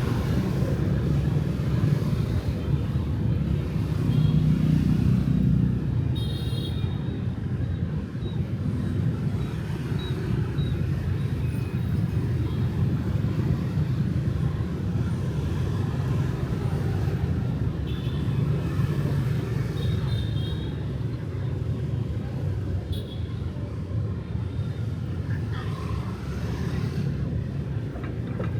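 City street traffic: a steady rumble of passing cars and motorbikes that swells about four to six seconds in, with a few brief high-pitched sounds scattered through.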